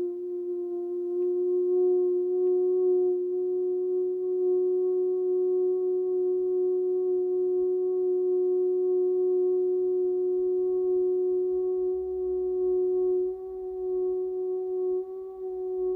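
A steady, pure sustained tone of a sound-healing session, with a fainter lower tone beneath it, held unbroken and wavering slightly near the end.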